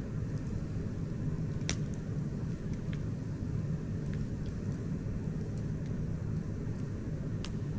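Campfire burning with a steady low rumble and scattered sharp crackles, the loudest about a second and a half in and near the end.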